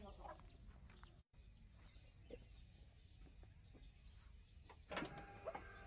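Near silence: faint outdoor ambience with a few faint ticks, and a brief louder clatter about five seconds in.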